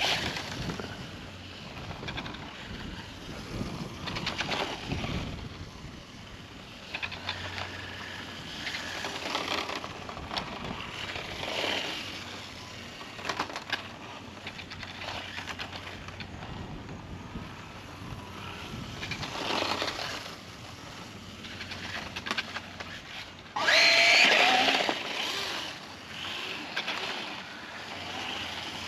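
X-Rider Mars 1/8-scale RC motorcycle running in repeated throttle bursts: its electric motor whines up and down with tyre noise, rising and fading every few seconds. The loudest, sharpest rev comes about 24 seconds in.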